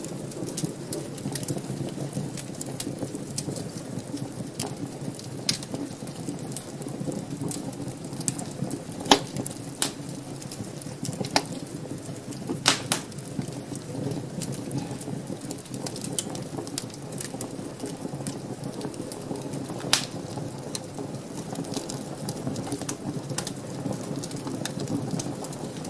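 Wood fire burning in a fireplace: a steady low rush of flames with frequent small crackles and a few louder pops, the sharpest about nine, thirteen and twenty seconds in.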